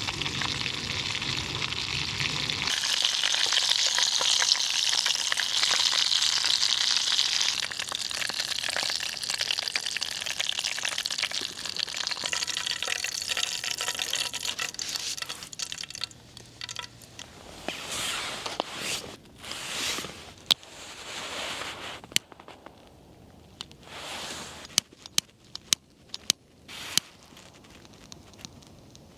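Chicken frying in hot oil: a steady sizzle that, after about sixteen seconds, thins into short separate bursts of sizzling with a few sharp clicks.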